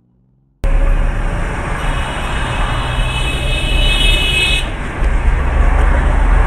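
Road traffic and vehicle noise with a heavy low rumble, starting suddenly about half a second in. A steady high-pitched tone sounds over it for about three seconds in the middle.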